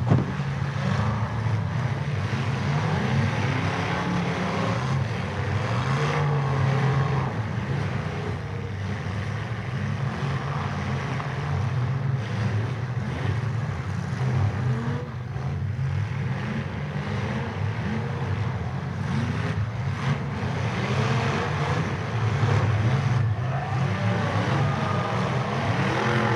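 Several demolition derby cars' engines running and revving, rising and falling in pitch, with a few sharp knocks from cars hitting each other.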